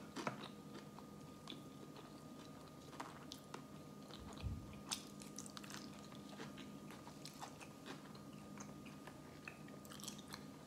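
Close-up mouth sounds of a person chewing a mouthful of sushi roll: soft, wet clicks and smacks scattered throughout, over a faint steady hum.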